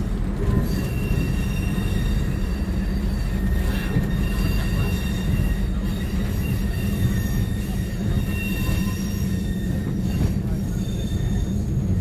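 Diesel multiple unit running, heard from inside the driving cab: a steady low drone of engine and wheels on the rails. Thin high-pitched wheel squeal comes and goes from about a second in onward.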